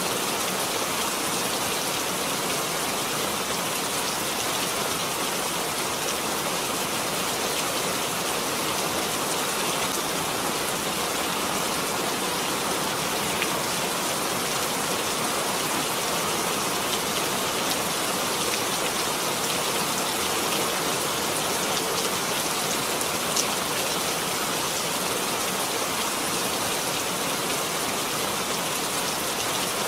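Steady rain falling, an even hiss with a few faint isolated drop ticks.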